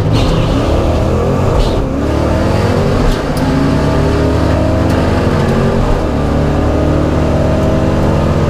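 Ford 5.0 V8 of a 1989 Mustang GT drag car at full throttle, its pitch climbing steadily and dropping back at gear shifts about three and six seconds in, accelerating down the drag strip.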